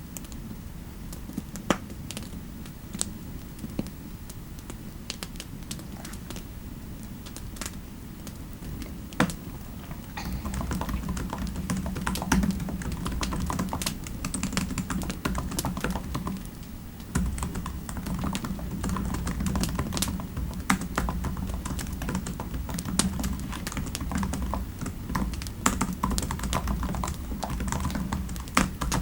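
Typing on a computer keyboard: scattered keystrokes at first, then steadier, faster typing from about ten seconds in.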